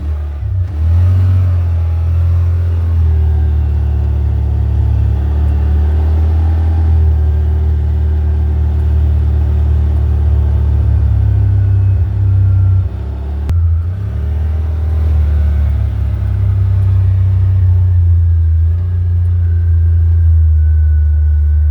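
Car engine and road rumble heard from inside the moving car, a steady low drone, with the engine pitch rising as the car accelerates about a second in and again about fourteen seconds in.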